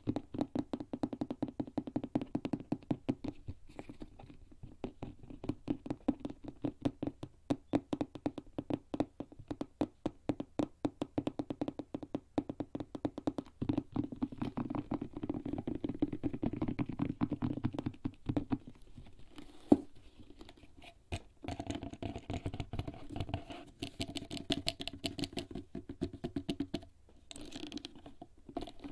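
Fingertips tapping rapidly and steadily on a HERZ leather bag, with a dull sound. About two-thirds of the way through, the tapping thins out into scratching and rubbing on the leather.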